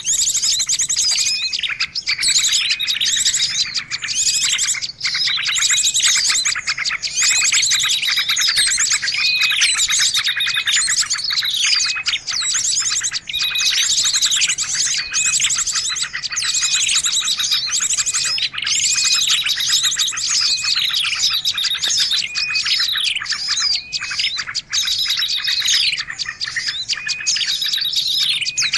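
Dense, busy chorus of many small birds chirping, trilling and whistling over one another without a break: a bird-lure (pikat) call meant to draw small birds in.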